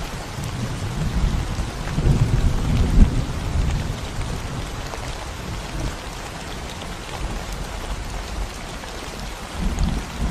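Steady rain falling on a concrete road and the plants around it, an even hiss of raindrops. A low, uneven rumble swells under it from about two to four seconds in and again near the end.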